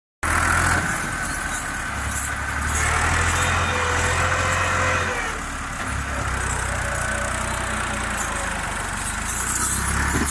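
Fiat 640 tractor's diesel engine running steadily, its low note dipping briefly about five seconds in before picking up again.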